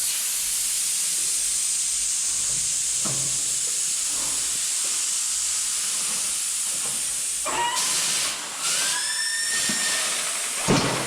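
Air hissing steadily while a tyre is taken off a wheel rim, with squealing gliding tones about eight seconds in and a sharp clunk near the end.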